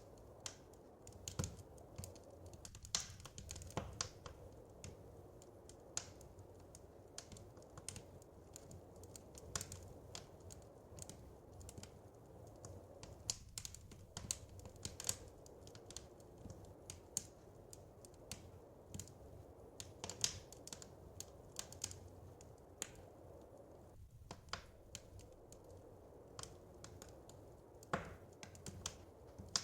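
Wood fire crackling: irregular pops and snaps at uneven intervals over a steady low rumble.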